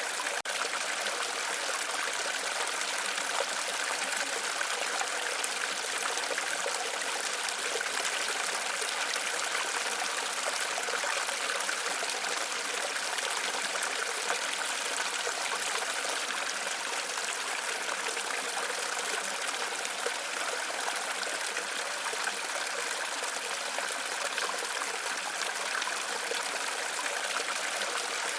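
Waterfall: a steady rush of falling and splashing water, even and unchanging.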